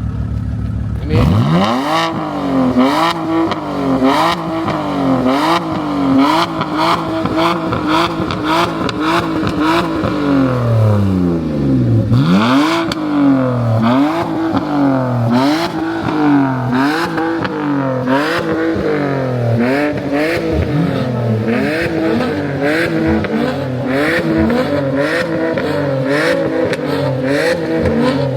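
Car engine revved in quick repeated blips, its pitch rising and falling over and over, with sharp exhaust cracks and pops; it starts suddenly about a second in out of a steady low idle, with one longer drop and climb near the middle.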